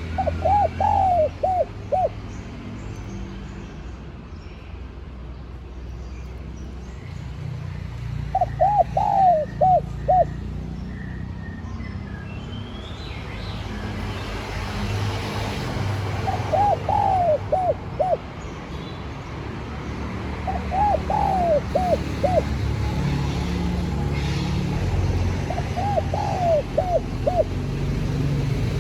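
Spotted dove cooing: five separate phrases of several quick, hooting coo notes each, a few seconds apart, with a steady low rumble underneath.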